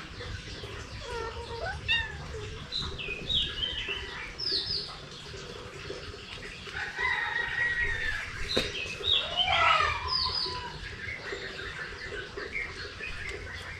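Animal calls: many short, high-pitched chirping calls that rise and fall in pitch, with longer calls about seven and ten seconds in.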